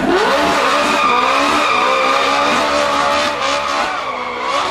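Modified car engine held at high revs with its tyres squealing. The pitch climbs quickly at the start, then holds with small wobbles and dips briefly near the end.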